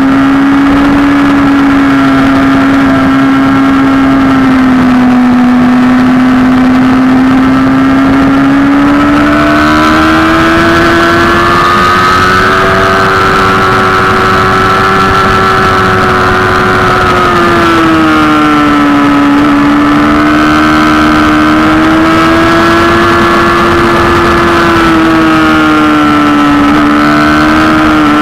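Sport motorcycle engine running at high revs on a race track at speed, heard loud from a camera mounted on the bike. Its pitch climbs as the bike accelerates about a third of the way in, holds, drops sharply about two thirds in, climbs again, and falls near the end.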